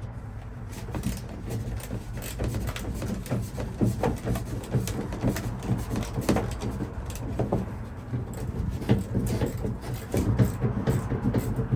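Hand tools working on a Ford F-150 ignition lock cylinder: a steady run of small irregular metal clicks, taps and scrapes as a part is worked loose, over a steady low hum.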